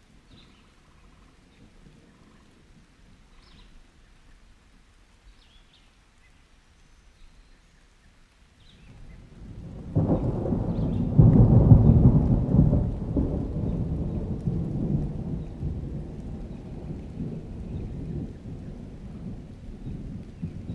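Thunderstorm ambience: light steady rain with faint bird chirps, then a roll of thunder starts about nine seconds in, is loudest a couple of seconds later and slowly rumbles away under the rain.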